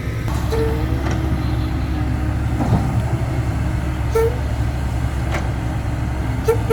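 Diesel dump truck engine running with a steady low rumble. A short higher tone sounds three times over it, the last one longer, near the end.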